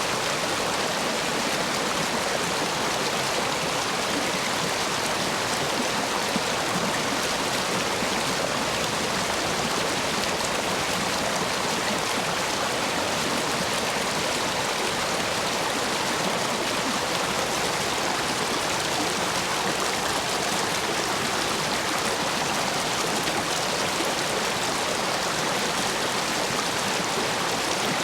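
Stream water rushing steadily through and around stone stepping stones, running high after heavy rain.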